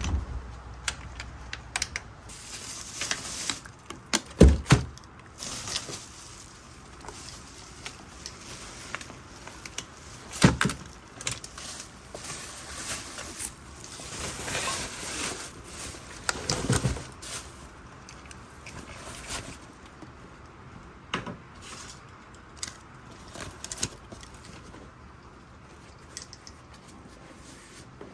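Gear being handled and packed: scattered clicks, clatters and rustling, with louder knocks about four and a half, ten and seventeen seconds in.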